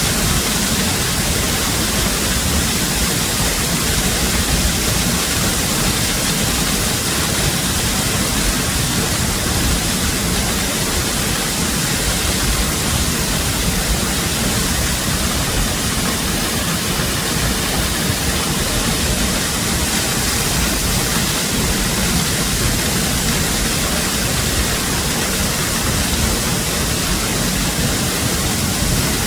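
Waterfall: falling water rushing in a loud, steady roar that doesn't change.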